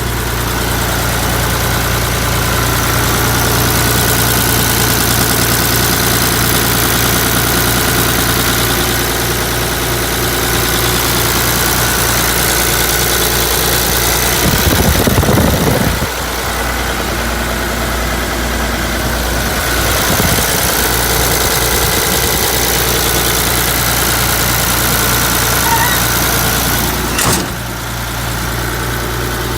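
Hino Ranger truck's diesel engine running steadily at idle, with a brief louder surge about halfway through and a single sharp click near the end.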